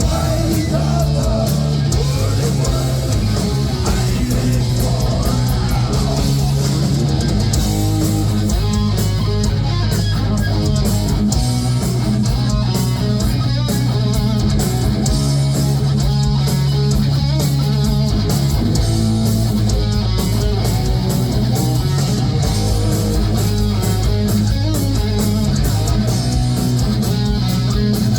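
Heavy metal band playing live, loud and unbroken, with guitar to the fore over bass and drums.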